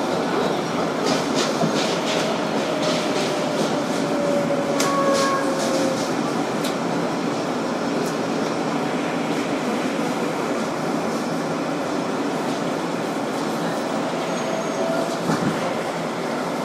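Inside an R-188 subway car on the 7 line: the steady rumble of the train, with scattered wheel clicks in the first half and a faint motor whine that falls and later rises.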